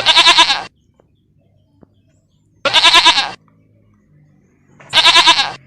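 Three quavering animal calls, each lasting under a second and spaced about two and a half seconds apart.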